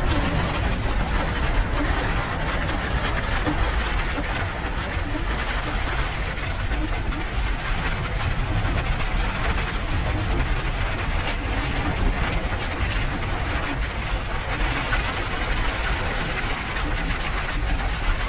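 Steady rain: an even, unbroken hiss with a strong low rumble beneath it.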